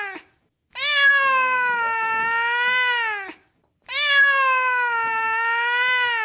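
A cat meowing in long, drawn-out calls: two full meows of about two and a half seconds each, each dropping in pitch at the end, after the tail of an earlier one.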